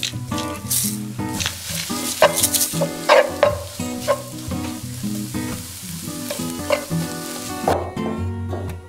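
Scrambled egg and sliced onion sizzling in a frying pan while a spatula stirs and scrapes through it in repeated strokes; the frying stops a second before the end, leaving background music.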